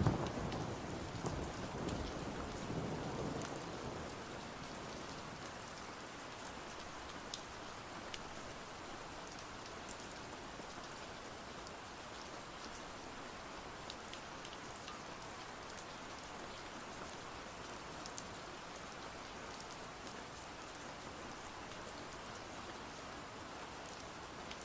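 Steady rain, with a rumble of thunder fading out over the first few seconds. Scattered faint ticks sit on top of the even rain.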